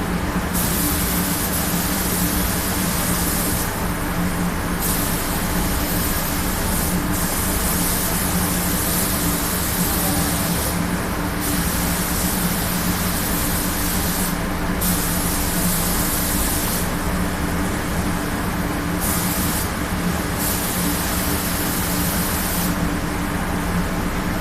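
Compressed-air paint spray gun hissing in repeated passes, cutting off briefly between them about six times, over a constant machine hum.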